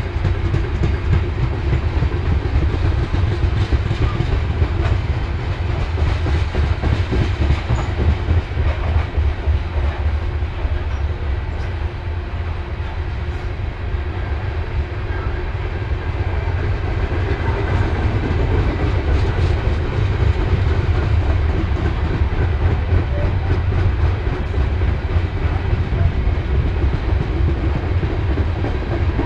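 BNSF train cars rolling past, a steady low rumble with the rapid clickety-clack of wheels over the rails and no horn.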